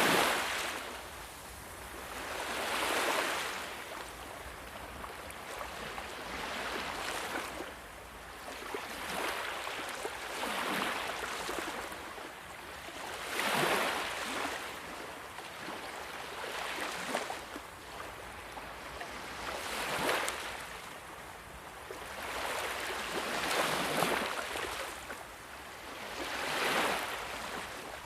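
Ocean waves breaking and washing up on a shore, each one swelling into a hiss and fading, about every three to four seconds.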